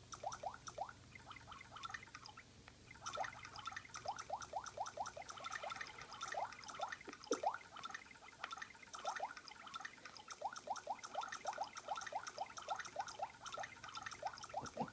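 Water-drop sound effects from a phone's speaker, a quick run of short falling 'plip' drops several a second, in irregular bursts with brief pauses, set off each time a parrot's tongue touches the touchscreen.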